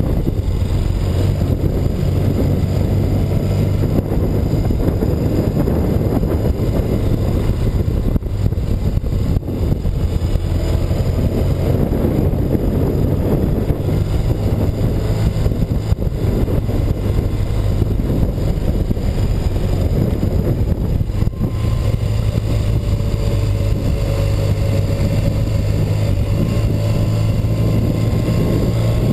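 1984 BMW R100RS's air-cooled flat-twin engine running steadily under way, with wind noise over the microphone. Near the end a faint rising whine climbs as the bike picks up speed.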